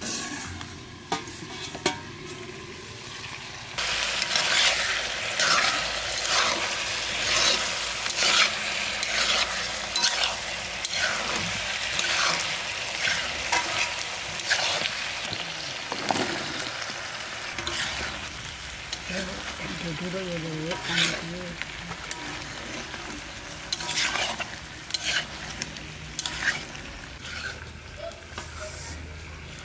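Chicken pieces sizzling as they fry in a black iron kadai, with a metal spatula stirring and scraping them in repeated short strokes. The sizzle gets much louder about four seconds in.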